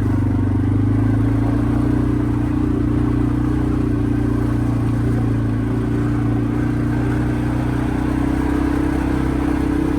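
Quad bike engine running steadily under way, its pitch holding nearly constant.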